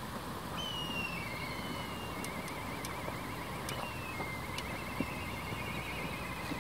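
A bird's high whistle that glides down into a fast wavering trill, heard twice, over a steady outdoor background noise with a few sharp cracks.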